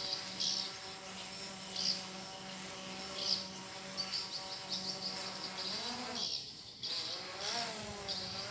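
A small multirotor drone flying overhead, its propellers giving a steady buzzing hum that wavers up and down in pitch near the end as it manoeuvres. Repeated short, high bird chirps run over it.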